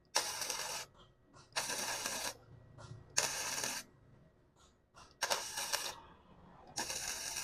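MIG welding arc on thin box-section steel, laid down in stitch-weld spots: five short bursts of crackling, each under a second, each starting sharply as the gun trigger is pulled and stopping when it is released.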